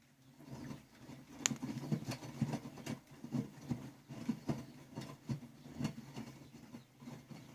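Miele washing machine drum turning: an irregular patter of light knocks and clicks, a few a second, starting suddenly, with one sharper click about a second and a half in.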